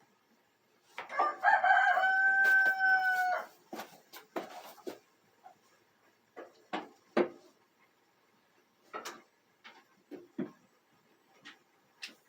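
A rooster crowing once, a call of about two and a half seconds, followed by scattered short clicks and knocks.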